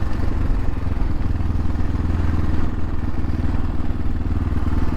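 Dirt bike engine running at steady revs while riding, under a steady rush of noise.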